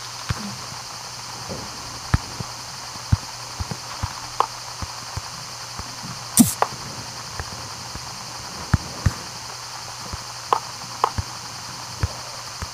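Irregular light knocks and clicks, a dozen or so spread out, the loudest about six and a half seconds in, over a steady high hiss.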